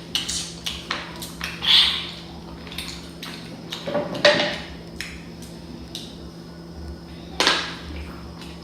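Hands peeling and handling boiled shellfish at a table: scattered crackles, clicks and light taps of shells being broken and set down, with a few louder rustling bursts.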